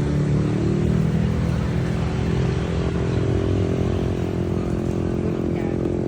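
Motor vehicle engine running steadily, its pitch shifting slightly now and then.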